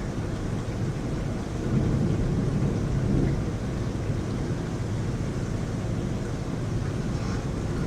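Heavy rain falling steadily during a thunderstorm, with a low rumble of thunder swelling up about two seconds in and fading out by about three seconds.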